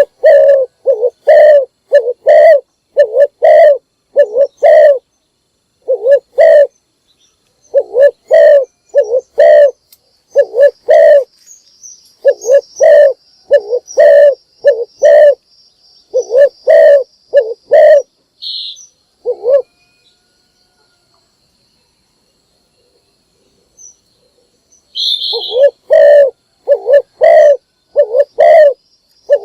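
Spotted dove cooing: short, low, rounded notes repeated in quick rhythmic runs, breaking off for about five seconds past the middle, then starting up again.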